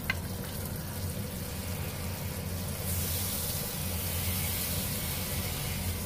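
Butter and sausage slices sizzling in a nonstick wok, the sizzle growing hissier about halfway through as a spatula pushes the pieces around, over a low steady hum.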